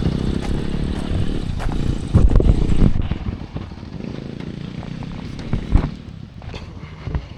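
Single-cylinder four-stroke engine of a Honda CRF450 dirt bike running under way. It is loudest for the first three seconds, then drops to a lower level, with a few sharp knocks, the loudest one near the six-second mark.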